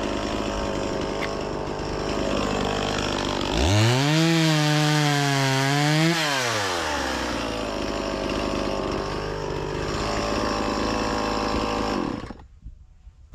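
Two-stroke chainsaw running under load, cutting fruitwood firewood with a freshly sharpened chain. Its engine revs up sharply to a high, steady pitch for about two and a half seconds in the middle, then drops back. Near the end the sound cuts off suddenly.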